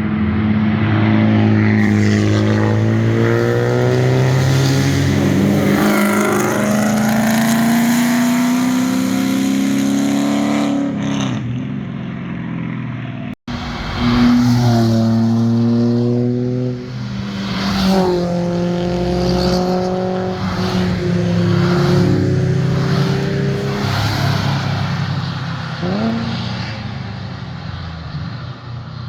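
Performance cars accelerating past, their engine and exhaust notes climbing with the revs and dropping back at gear changes. An abrupt cut about 13 seconds in, after which another car revs up through its gears.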